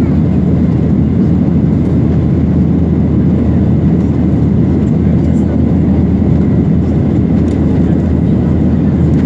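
Airliner cabin noise: a steady, loud rumble of the engines and airflow, with a faint thin whine held above it.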